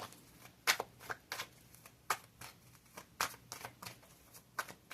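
Tarot cards being handled and shuffled: a dozen or so short, sharp card flicks and taps at an irregular pace.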